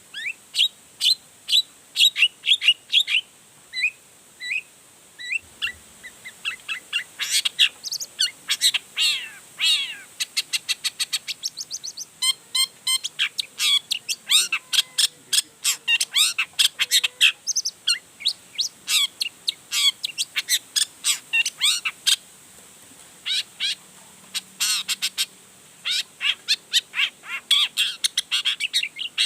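Long-tailed shrike (cendet) singing a fast, varied run of short chirps, trills and chatter, pouring out its repertoire of song material, with brief pauses about a fifth of the way in and again about three quarters in.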